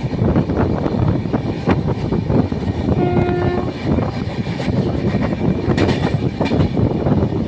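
Train running on the rails, a loud rumble with repeated wheel clatter over the track joints, and one short horn blast about three seconds in.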